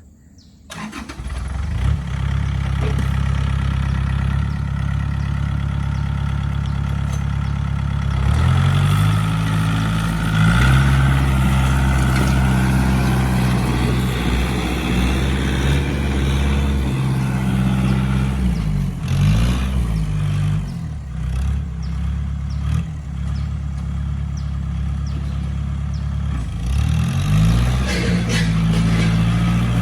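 Tractor engine running with a steady low drone that comes in within the first second or two. Its pitch rises about a quarter of the way in, then dips and climbs again twice later as the engine is worked harder and eased off.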